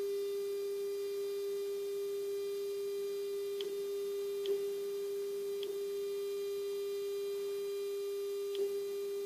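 Steady 400 Hz test tone played back from cassette tape on a Nakamichi CR-7 deck with dbx noise reduction, carrying faint higher overtones. A few faint clicks come through about four, five and a half and eight and a half seconds in.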